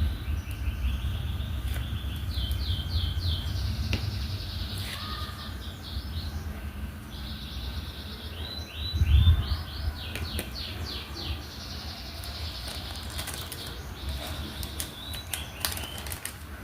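Small birds chirping in quick repeated series, over a steady low rumble, with scattered light clicks.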